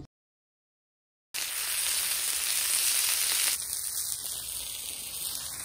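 Silence for about the first second, then meat sizzling as it fries on a hot stainless-steel griddle, a steady sizzle that drops a little in level about halfway through.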